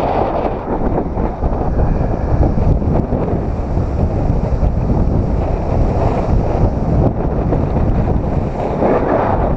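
Strong wind buffeting the microphone over ocean surf breaking on rocks: a loud, steady low rush that swells near the start and again near the end.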